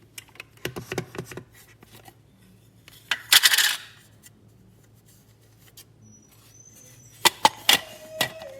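Sharp clicks and knocks of small hard parts being handled, with a loud, short rattling rush about three seconds in and another cluster of clicks near the end.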